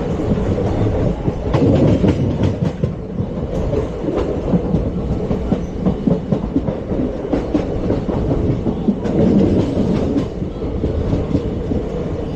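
ICF passenger coach running at speed, its wheels rumbling and clattering over the rail joints with many short clicks.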